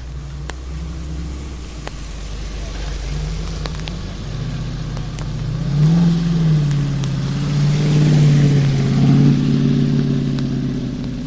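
Ford Mustang GTD's supercharged V8 running on track, growing louder as the car approaches, loudest from about six to nine seconds in, then fading as it pulls away. The engine note dips in pitch once about six seconds in.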